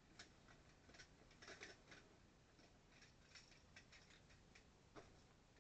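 Near silence with faint, scattered light clicks and taps, one a little sharper about five seconds in.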